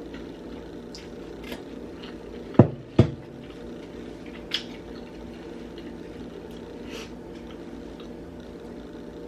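Two dull thumps, about half a second apart, roughly two and a half seconds in, over a steady low background hum, with a few faint clicks.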